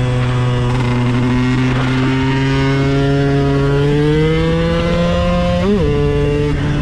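KTM 125 EXC supermoto's single-cylinder two-stroke engine running hard. Its note holds steady, then climbs slowly over a few seconds, wavers sharply for a moment about six seconds in, and settles a little lower.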